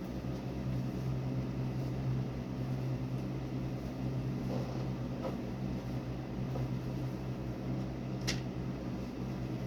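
A steady low mechanical hum with one sharp click near the end.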